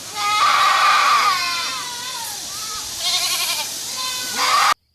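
Goat bleating: a long wavering bleat that falls in pitch, then two shorter bleats, over a steady hiss. The sound cuts off suddenly near the end.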